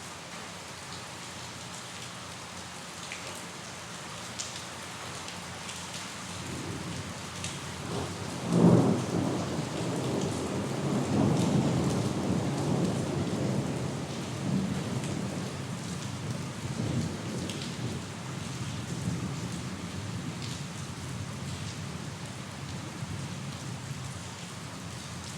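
Steady rain with scattered droplet ticks. A thunderclap breaks about nine seconds in, after a short building rumble, and rolls on as a low rumble that slowly fades over the next ten seconds.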